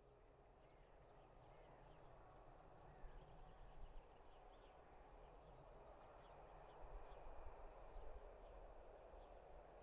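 Near silence: quiet countryside with faint bird chirps scattered throughout, over a faint steady background that slowly grows louder.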